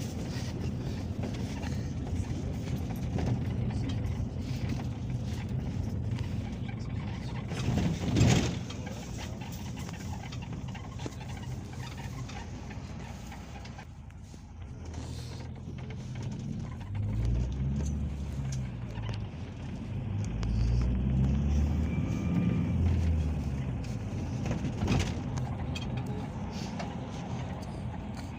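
Inside a moving Peugeot Boxer minibus: steady engine and road rumble, with a sharp knock about eight seconds in, like a jolt over a bump.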